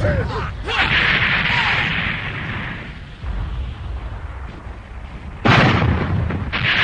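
Cartoon battle sound effects of cannon fire and explosions, with a sudden loud blast about five and a half seconds in.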